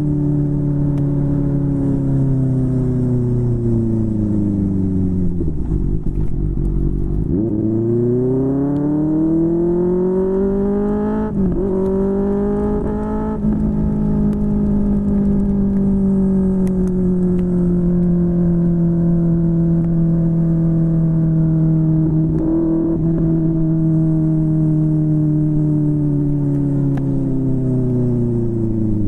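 QJMotor SRK600 inline-four engine through a Yoshimura R11 exhaust, heard from on the bike while riding. The revs fall away for the first several seconds, then climb again with a quick break for a gear change about eleven seconds in. After that the engine holds a steady cruise and drops off again near the end.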